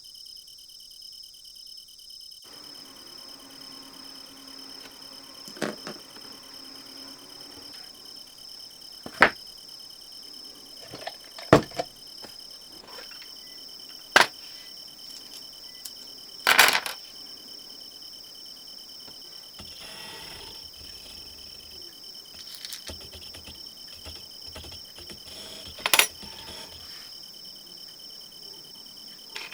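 Steady, high-pitched chorus of crickets from a nature-sound ambience track. Over it come about six sharp, loud clicks and taps of small tools and plastic parts handled at the workbench, the loudest near the middle.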